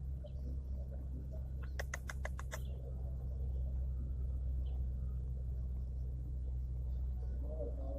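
Steady low hum, with a quick run of about six sharp clicks about two seconds in and a few faint high chirps.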